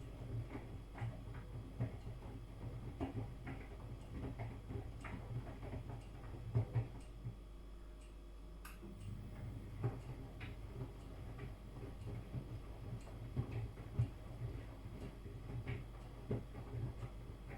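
Miele front-loading washing machine mid-wash: the drum motor hums low and steady while tumbling laundry knocks against the drum in irregular light clicks. Near the middle the motor hum stops for about a second and a half, as the drum pauses to change direction, then starts again.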